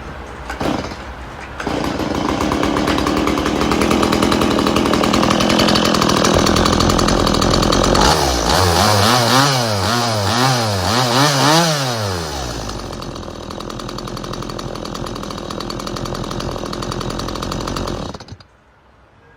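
Stihl MS170 two-stroke chainsaw engine running, with its freshly replaced fuel hose, fuel filter and spark plug and a new chain. Midway it is revved up and down in a quick series of about five or six throttle blips. It then settles back to a steady idle and cuts off suddenly near the end.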